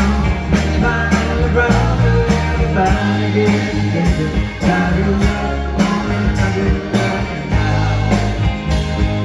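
Live rock band playing the closing bars of a song, with a steady drum beat and sustained bass notes.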